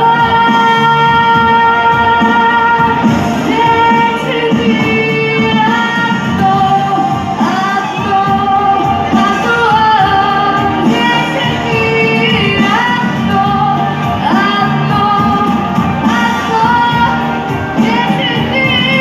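A girl singing in Russian with instrumental accompaniment, in phrases with held notes and sliding pitch.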